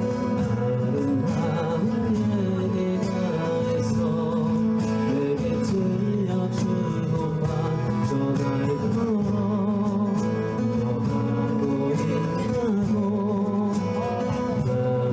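Live band playing a mellow pop ballad led by guitar, with a wavering melody line over the steady chords.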